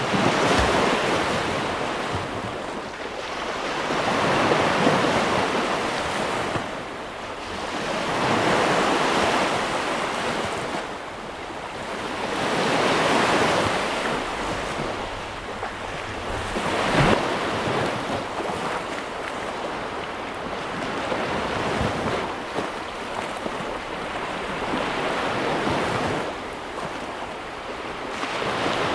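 Sea waves breaking on a shore, the surf swelling and washing back in slow surges every four seconds or so, with wind noise on the microphone.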